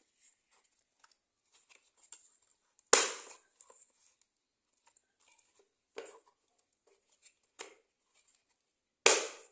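Toy truck parts clicking and knocking as the front wheels are handled and pressed onto the chassis. Two loud sharp snaps, about three seconds in and near the end, with two lighter knocks and faint ticks between.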